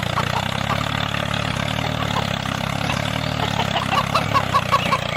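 A small motor running steadily with a low hum, with a light, irregular ticking over it, about four or five ticks a second.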